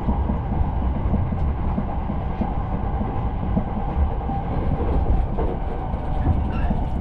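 Steady rumble of a moving passenger train heard from inside the carriage, its wheels running on the rails.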